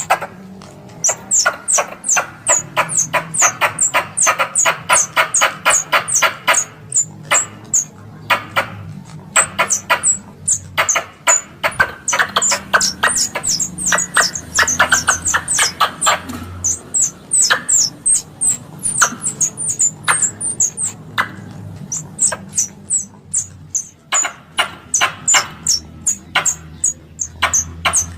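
Squirrel chattering calls used as a hunting lure: rapid sharp chips, several a second, each topped by a high falling squeak, in long bursts broken by short pauses.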